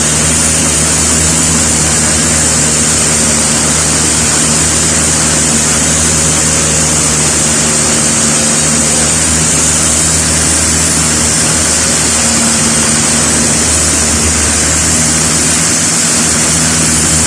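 Motorboat engine running steadily at a constant speed, with a steady hiss of water and wind over it.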